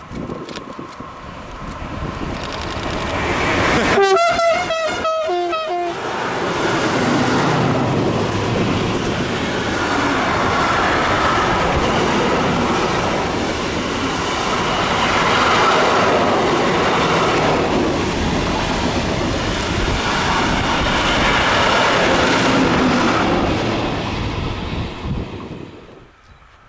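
A train approaching and passing close by, its horn sounded for about two seconds with two pitches, followed by some twenty seconds of loud wheel and rail noise with rhythmic clatter over the rail joints, which then cuts off.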